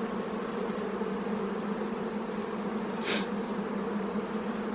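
Honey bee colony in an opened hive buzzing steadily. A faint high chirp repeats about twice a second, and a brief hiss comes about three seconds in.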